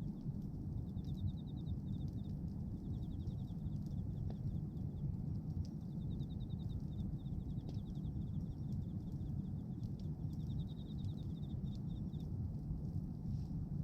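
Bonfire of pruned branches burning with a steady low rumble and scattered faint crackles. A rapid high trill repeats in short runs of about a second throughout.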